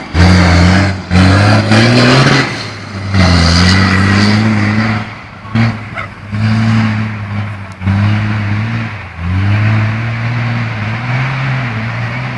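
Tatra 815 4x4 truck's diesel engine revving hard under load. The throttle repeatedly cuts and opens again, so the deep engine note drops out briefly and climbs back about six times.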